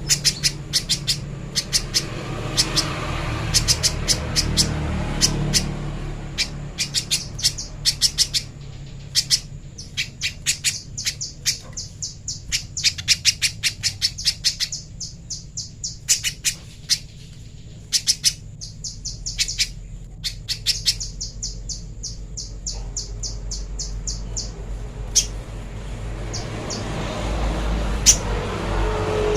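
A spiderhunter calling: runs of short, sharp, high chirps, several a second, with brief pauses between runs.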